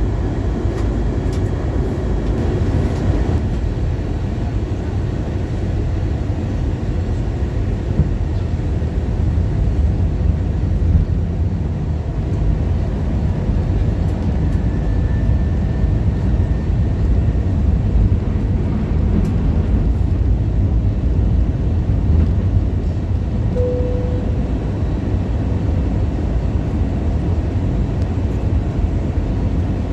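Steady low rumble of an Airbus A321-200 airliner's cabin in flight, the drone of its engines and the rush of air along the fuselage during the descent toward landing.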